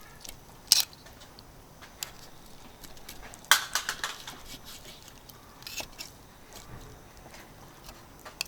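Scattered sharp clinks and knocks of camp cooking gear being handled, with a quick cluster of them about three and a half seconds in.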